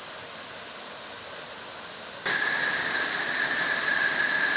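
Steady rushing of a waterfall. A little over two seconds in, the sound changes abruptly and becomes louder.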